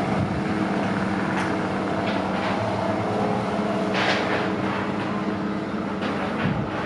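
Diesel train engine idling steadily, with several short hisses of air over it.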